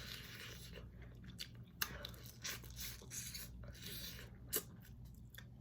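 Close-miked eating of shellfish: small clicks and crackles of shell being broken and picked apart, with soft wet chewing. Two sharper cracks come about two seconds in and again about four and a half seconds in.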